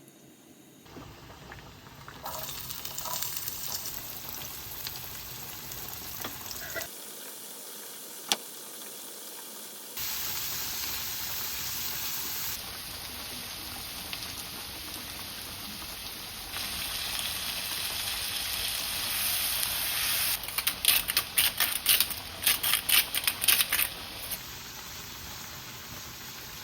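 Food sizzling in a frying pan, in several short clips cut one after another. Near the end comes a run of quick sharp clicks or taps.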